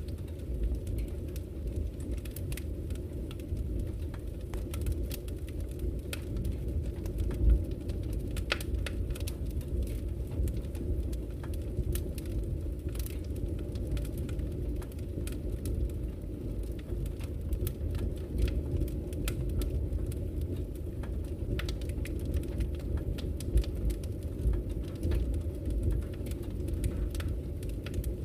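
Wood fire crackling in a fireplace: frequent sharp pops and snaps over a steady low rumble, with one louder pop about seven and a half seconds in.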